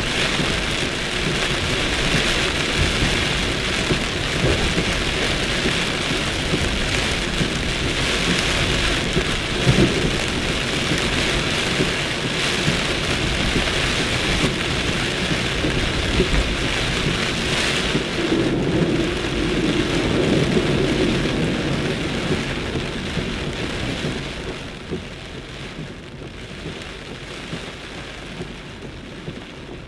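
Torrential rain pouring down in a thunderstorm, with thunder rumbling. The downpour becomes noticeably quieter about three-quarters of the way through.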